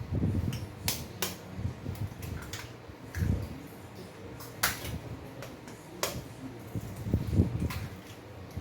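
Eggs being cracked against the rim of a bowl: a handful of sharp taps a second or more apart, with duller knocks of bowls and utensils being handled.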